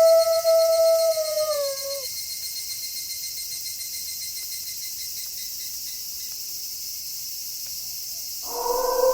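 A wolf's howl holds one steady pitch, then drops and ends about two seconds in, and a new howl starts near the end. A steady high chirring of insects runs underneath.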